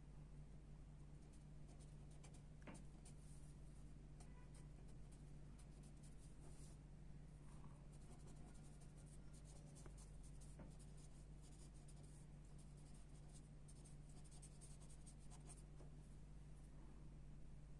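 Graphite pencil sketching on paper: faint, irregular scratchy strokes over a steady low hum.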